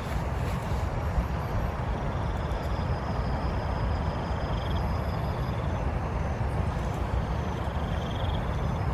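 Steady storm noise: strong wind rumbling on the microphone over the hiss of heavy rain.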